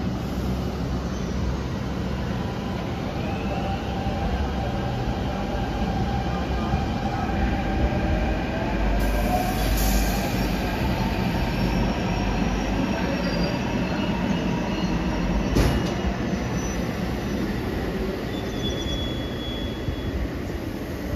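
Shamli–Delhi passenger train running along the track: a steady rumble with thin wheel squeals sliding in pitch, and one sharp knock about three-quarters through.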